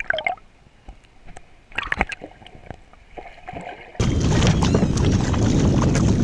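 Small splashes, drips and clicks of water against a kayak, with a brief flurry of splashing about two seconds in. About four seconds in, a sudden loud, steady rush of water and wind noise on the microphone takes over.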